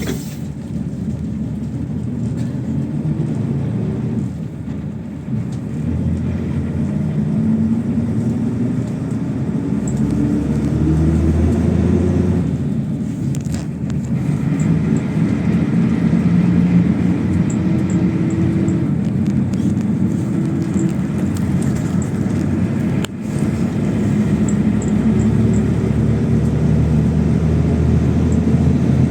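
PAZ-32054 bus under way, its engine and road rumble steady, the engine note climbing as it pulls, dropping about twelve seconds in as if at a gear change, then climbing again.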